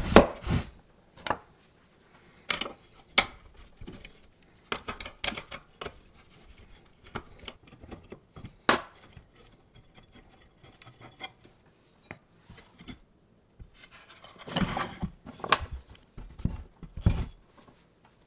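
Irregular clinks, taps and knocks of hand tools and small machine parts being handled during hand disassembly of an antique noodle maker, with one sharp metallic clink about halfway through and a denser spell of knocking near the end.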